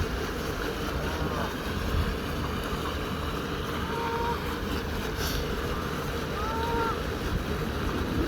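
Steady wind and water noise, with a few short, faint, arching bird calls scattered through it.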